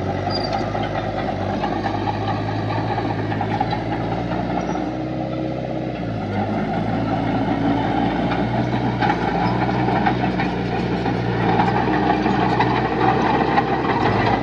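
Diesel engine of heavy earthmoving machinery running steadily, getting a little louder in the second half.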